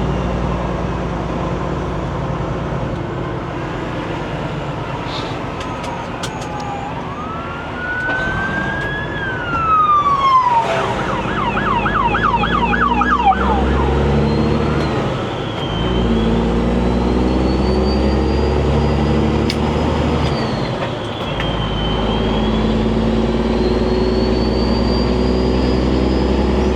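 Police car sirens going by: a slow wail rising and falling, then a few seconds of fast yelp about ten seconds in, then more slow high wails. Underneath runs the steady low drone of the truck's diesel engine.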